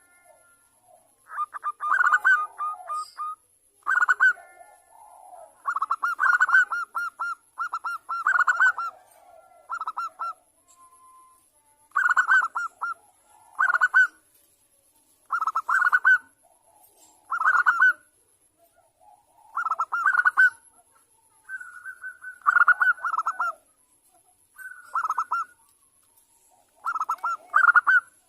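Zebra dove (perkutut) cooing: short, rapidly pulsed staccato phrases at one pitch, repeating about every two seconds.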